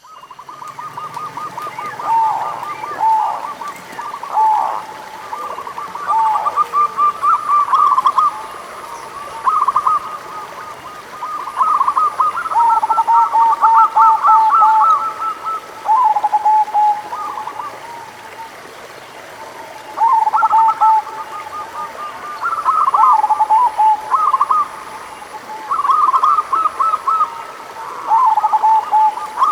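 Several zebra doves cooing: trains of rapid, rolling notes at two pitches overlap one another, coming in bouts with brief pauses between.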